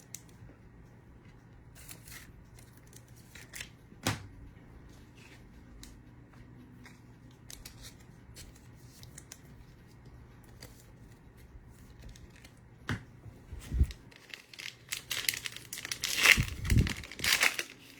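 Trading-card pack wrapper torn open and crinkled, loudest in the last few seconds, after quiet handling clicks and a single knock about four seconds in.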